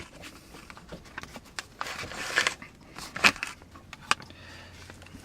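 Food pouch crinkling and rustling as it is handled and emptied onto a plate, with a few sharp clicks and a denser stretch of rustling about two seconds in.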